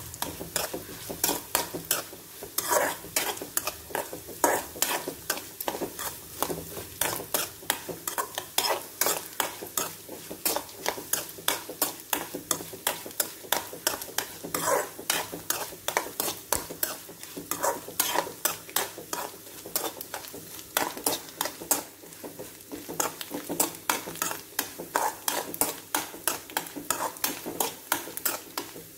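Chopped coconut pieces sizzling in hot coconut oil in a metal kadai, while a metal spoon stirs and scrapes against the pan in quick, repeated strokes.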